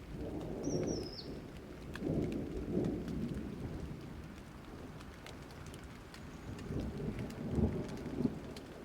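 Rain falling steadily with fine drop patter, and low rolls of thunder rumbling up about a second in, again around two to three seconds in, and most strongly near the end.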